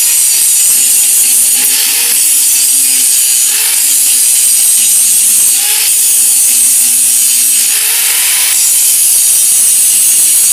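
Handheld power grinder grinding down the depth-gauge rakers of a chainsaw chain, a loud continuous metal-on-metal grind whose motor note wavers as it takes load, swelling harsher in several passes.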